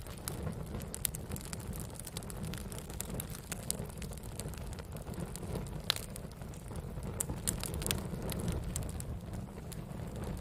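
Wood fire crackling, with frequent sharp pops and snaps over a steady low rumble of burning; one louder pop about six seconds in.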